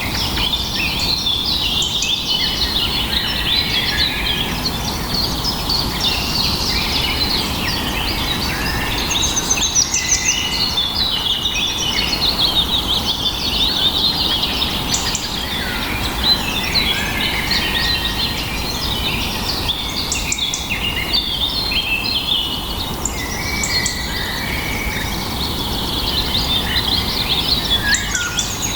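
A dense chorus of many birds chirping and trilling at once, calls overlapping without pause, over a steady low background noise.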